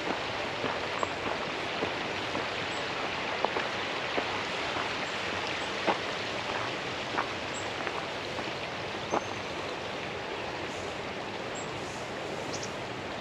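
Steady patter of falling water with many scattered sharp drips, cutting off suddenly at the end.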